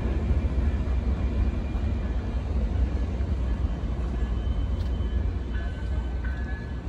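COASTER commuter train pulling away down the track, its low rumble slowly fading as it recedes, mixed with wind buffeting the microphone.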